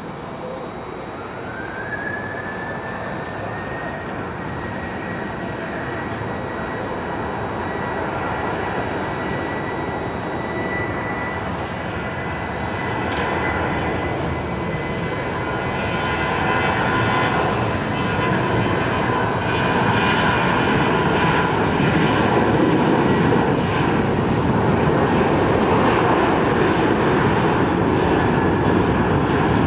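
Boeing 737-800's CFM56 turbofan engines spooling up to takeoff thrust. A whine rises in pitch about a second in and then holds steady, while the jet roar grows steadily louder.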